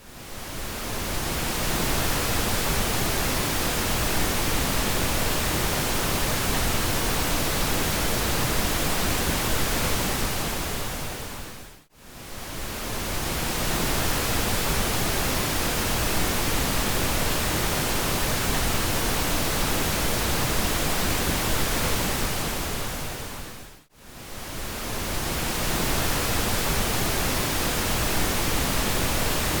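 Steady synthetic pink noise, an even hiss heavier in the low end, that fades down to near silence and swells back up every twelve seconds or so: at the start, about twelve seconds in and about twenty-four seconds in.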